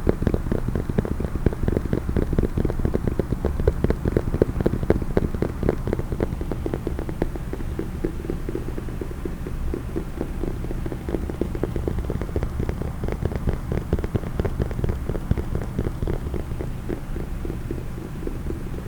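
Fast, continuous tapping on a case, many quick taps a second, a little denser and louder in the first half.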